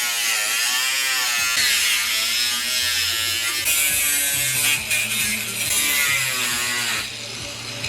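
Handheld power cutting tool cutting out a rusted section of car body sheet metal: a motor whine that wavers up and down in pitch as the tool loads, over a bright hiss. It stops about seven seconds in.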